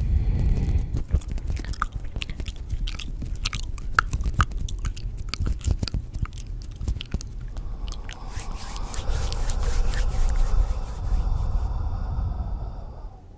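Close-up ASMR crackling and crunching: a dense run of sharp clicks and crackles, giving way about eight seconds in to a softer, steady rustling hiss that fades near the end.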